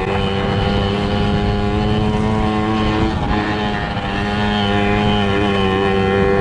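Small single-cylinder motorbike engine running at a steady pace while riding, easing off briefly about three seconds in, then holding steady again.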